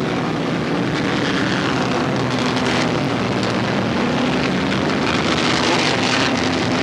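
Race car engines of the field running together as they circle the track: a steady, even drone without sharp revving, with some wind noise on the microphone.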